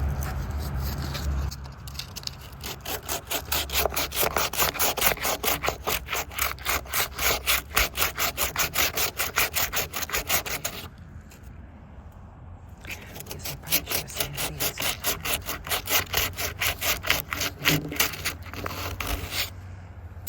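Quick, rhythmic back-and-forth rubbing strokes against a high-density polyethylene barrel during crack repair, in two spells with a short pause in between.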